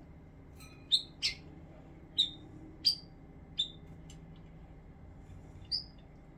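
Pet bird giving about six short, sharp chirps at uneven intervals, most of them in the first few seconds and one more near the end.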